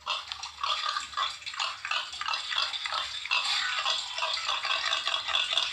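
Recorded pig sounds: a fast, unbroken run of short grunts, several a second.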